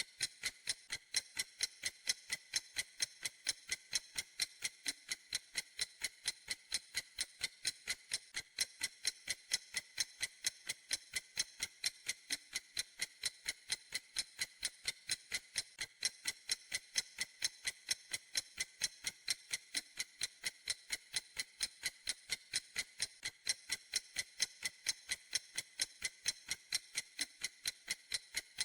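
Clock ticking steadily: fast, even, crisp ticks, a few a second.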